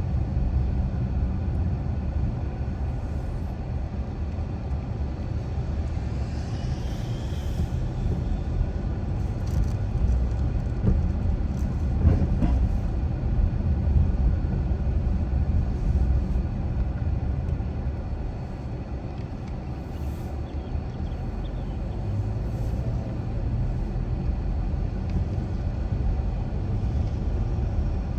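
A car driving on a neighborhood street: steady low rumble of tyres and engine, with a brief knock about twelve seconds in.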